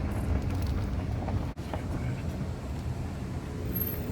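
Car running along the road, heard from inside the cabin as a steady low rumble of engine and road noise. The sound briefly cuts out about a second and a half in.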